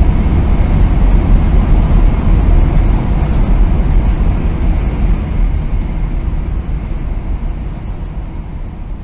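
Steady running rumble of a Shinkansen train heard inside the passenger car, with a faint steady high tone in it, slowly fading in the second half.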